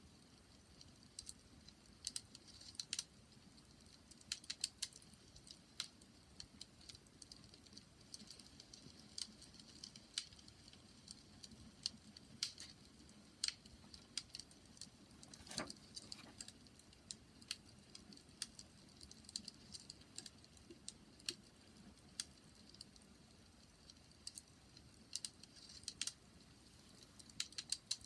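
Wood fire crackling quietly, with irregular sharp pops and snaps over a faint low hiss, and one stronger pop about halfway through.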